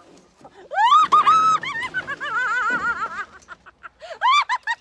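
A pony whinnying: a high call that rises and holds, breaks into a fast wavering trill, then goes on as a run of short arched calls near the end.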